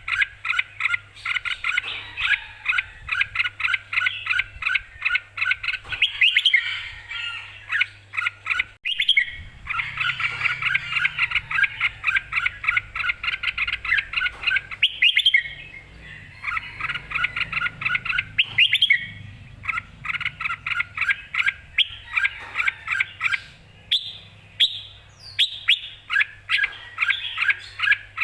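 Red-whiskered bulbul calling in rapid runs of short, sharp chirps, bout after bout with brief pauses, over a faint steady low hum.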